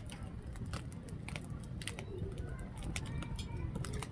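Firewood burning in a camp fire pit, crackling with sharp, irregular pops several times a second over a low rumble.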